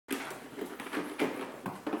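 Small terrier working at a large bone: a quick, uneven run of short scrapes and knocks, about four or five a second.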